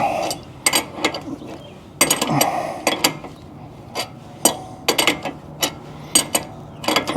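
Hand tools working on steel steering parts: irregular sharp metallic clicks and clinks, with short ratcheting passes near the start and about two seconds in.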